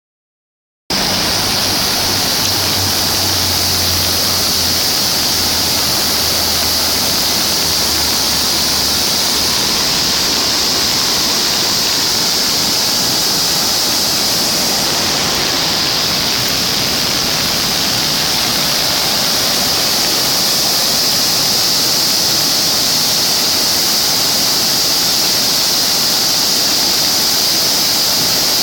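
A river in flood after typhoon rain, its swollen muddy water rushing in a steady, loud roar that starts about a second in.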